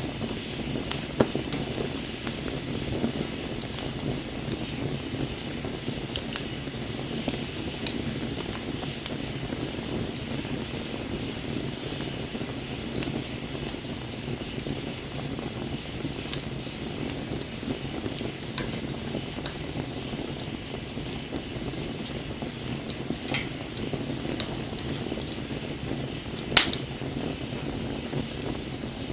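Wood bonfire burning: a steady crackle and hiss with scattered sharp pops, the loudest pop near the end.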